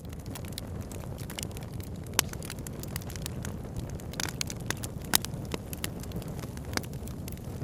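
Campfire crackling, with sharp, irregular pops scattered throughout over a steady low rushing background.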